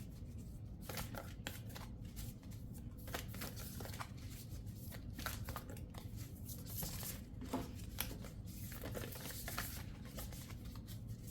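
Tarot cards being shuffled by hand: a long run of soft flicks and slides of card stock, with a few hissier riffling stretches.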